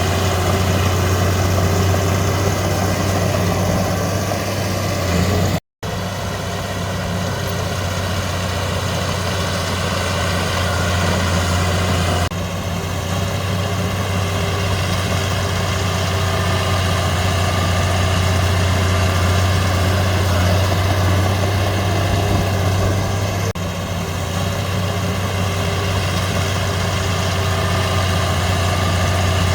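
Heavy diesel engine of earthmoving machinery running steadily with a low drone. The sound drops out completely for a moment about six seconds in.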